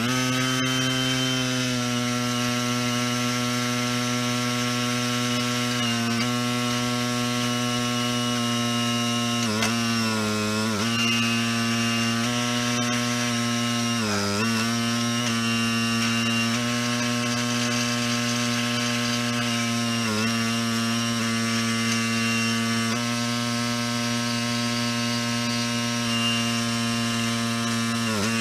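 Log splitter starting up and running steadily with a humming drone, its pitch dipping briefly a few times as it takes the load of splitting logs.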